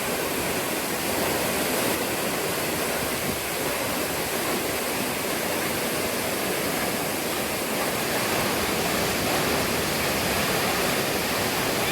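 Steady rushing water, an even hiss without any breaks.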